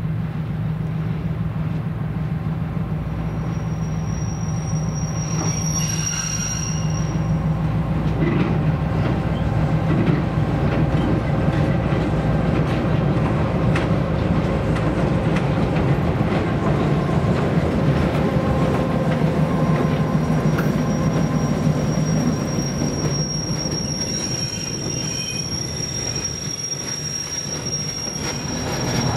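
Diesel locomotive hauling passenger coaches past at low speed: a steady engine drone that grows a little louder as the train goes by, with high-pitched wheel squeal from the rails twice, briefly about four seconds in and again through the last nine seconds or so.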